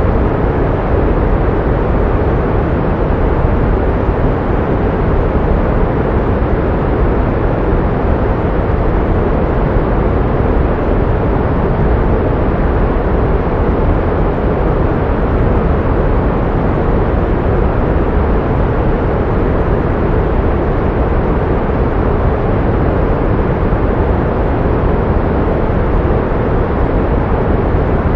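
Steady pink noise: an even, unbroken rushing sound, fullest in the low range and thinning toward the highs, with no change in level or character.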